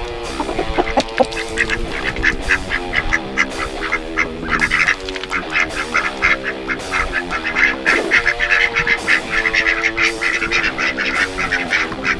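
Domestic ducks quacking in quick, repeated calls, busiest in the second half, over background guitar music.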